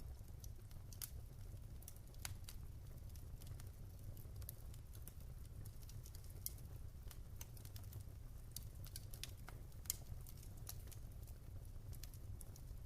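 Wood fire crackling in a fireplace: irregular sharp pops and snaps over a steady low rumble, with one louder pop about ten seconds in.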